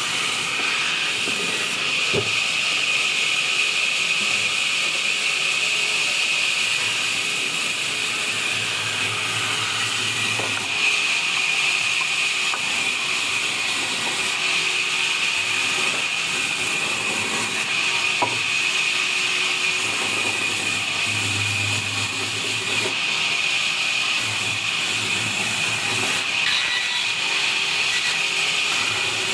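Wood-cutting band saw running and sawing through small logs: a steady hiss with a strong high band, and a low hum that comes and goes.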